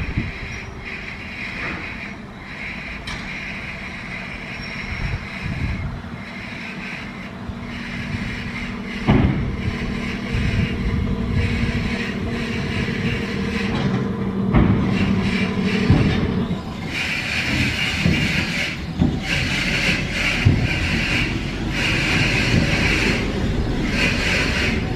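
Train of the Oberweißbach mountain railway running, with a steady motor hum in the middle and several sharp clicks of wheels over rail joints. The sound grows into a denser rolling noise in the last third.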